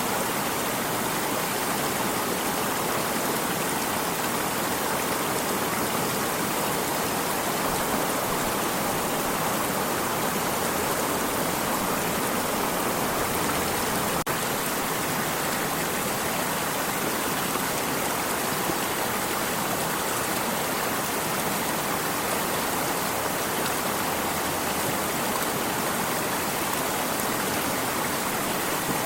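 Water stream running steadily, a continuous even rush of flowing water.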